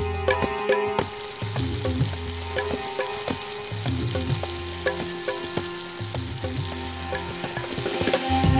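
Sliced onions frying in hot oil in a pan: a steady sizzle with the scrape and tap of a spatula stirring them. The sizzle drops away near the end.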